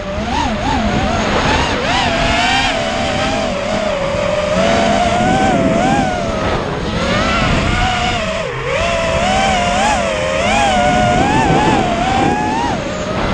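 FPV racing quadcopter's motors whining, the pitch rising and falling quickly as the throttle changes. There is a brief dip near the middle.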